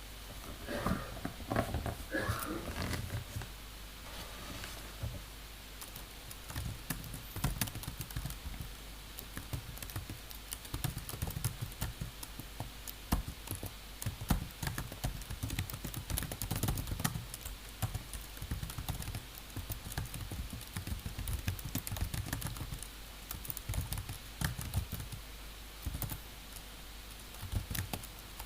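Computer keyboard typing: irregular key clicks coming in uneven runs.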